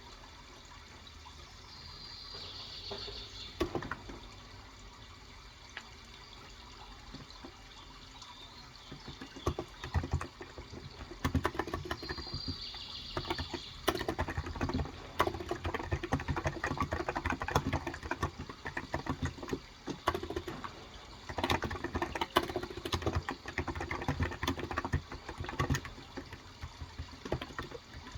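Typing on a Cox Endeavor electro-capacitive (Topre-style) 35 g tenkeyless keyboard: a few keystrokes, then dense runs of keystrokes from about a third of the way in. Under it runs a steady sound of flowing water, with two brief bird chirps.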